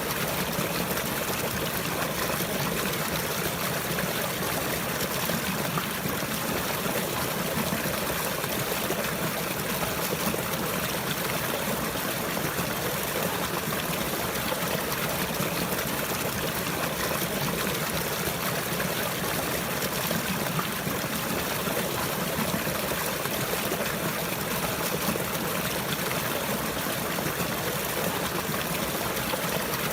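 Water running and trickling steadily, with an even rushing and no breaks.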